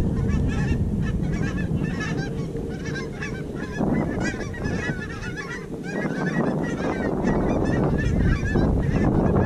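A large flock of geese honking, many short calls overlapping without a break, over a steady low rushing noise.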